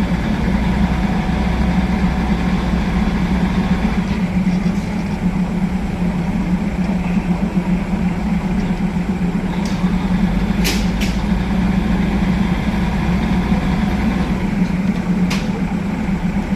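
Diesel railcar engine running at a steady idle, a constant low drone that does not rise or fall. A few sharp clicks come about two-thirds of the way in and again near the end.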